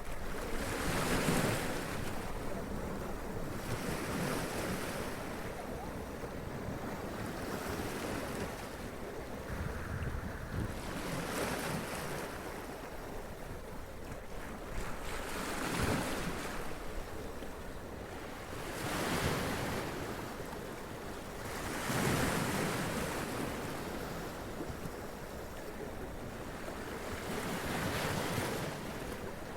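Sea waves washing up onto rocks and splashing, a steady surf noise with a surge every few seconds, and wind on the microphone.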